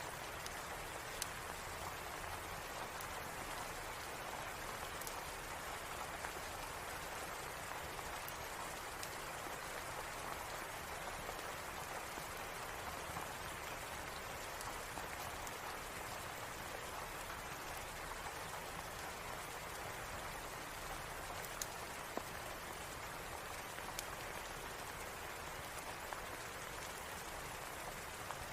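Steady rain falling, an even hiss of drops, with a few scattered sharp clicks.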